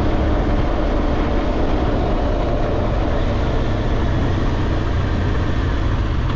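BMW R1200GSA motorcycle under way: its flat-twin engine running steadily beneath a constant rush of wind and road noise.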